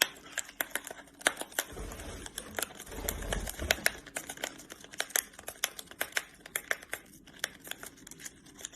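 Rapid, irregular sharp clicks and small tearing sounds of a parrot's beak picking and tearing at a tea packet, with low handling bumps about two to four seconds in.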